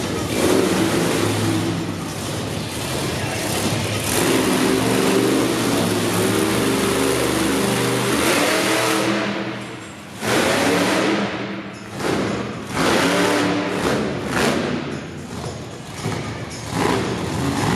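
Monster truck engine revving hard, its pitch rising and falling, then dropping off about ten seconds in and coming back as a series of short, sharp rev surges.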